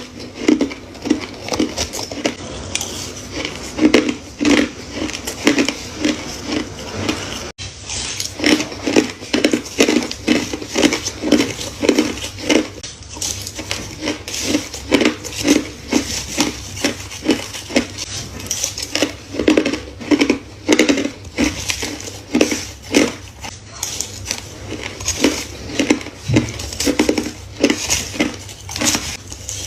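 A person biting and crunching shaved foam ice and crushed ice close to the microphone: a steady run of crisp crunches, about two to three a second, with a brief break about seven and a half seconds in.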